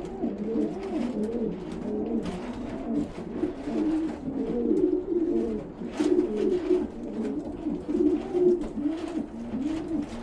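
Several pigeons cooing continuously in the loft, their low, rolling coos overlapping one another, with more than one bird calling at once.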